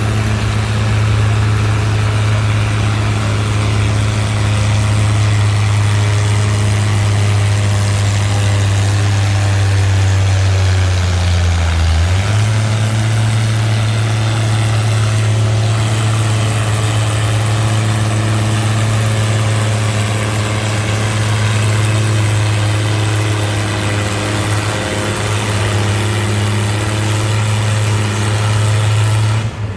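Antique tractor engine running loud and steady, its pitch stepping up slightly about twelve seconds in; the sound cuts off abruptly near the end.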